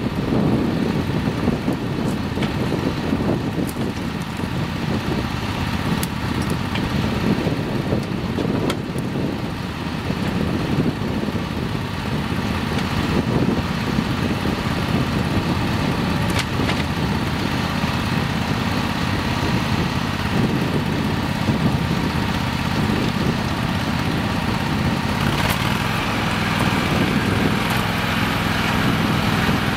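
Simplicity Legacy garden tractor engine running steadily while it drags limbs, its note shifting slightly near the end.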